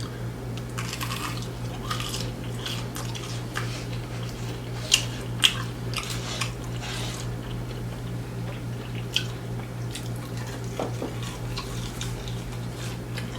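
A person biting and chewing fried food, with scattered short crunches and clicks and two sharper clicks about five seconds in, over a steady low hum.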